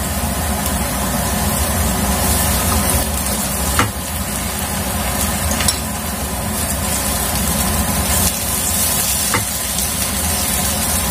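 Garlic, shallots and chili paste sizzling in hot oil in a nonstick frying pan while being stirred with a wooden spatula, with a few light taps of the spatula against the pan.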